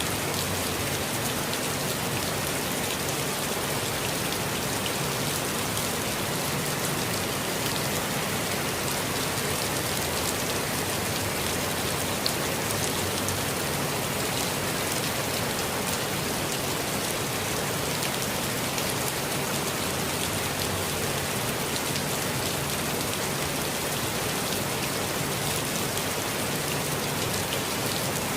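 Steady rain falling on a forest, many drops pattering on leaves and ground. The level stays even, with one slightly louder drop about twelve seconds in.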